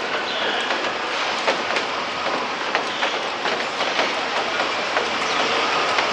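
Steady rain falling, with irregular sharp ticks of drops hitting hard surfaces close to the microphone.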